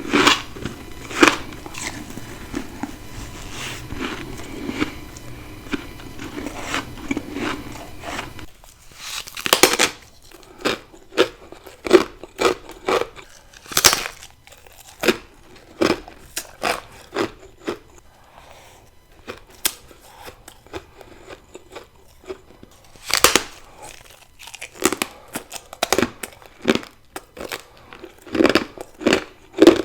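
Ice being bitten and chewed close up: crisp crunches that come thick and fast for the first several seconds, then single bites a second or so apart, a few of them louder.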